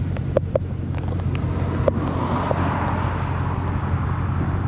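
Vehicle noise outdoors among running cars: a steady low engine hum, a few sharp clicks in the first two seconds, and a rushing noise that swells up and fades away around the middle.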